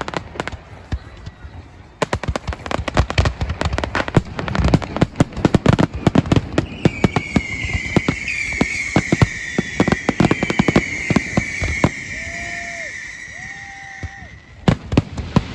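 Fireworks display: a rapid, dense run of bangs and crackles. Over it, from about halfway in, a long high hissing whistle runs for several seconds, drifting slightly lower in pitch.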